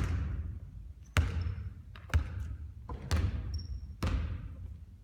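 A basketball bouncing on a hardwood gym floor, five bounces about a second apart, each echoing in a large hall.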